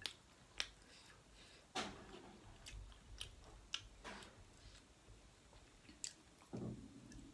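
Close-up chewing and wet mouth smacks of a person eating rice and curry by hand, with a few sharp clicks at irregular intervals.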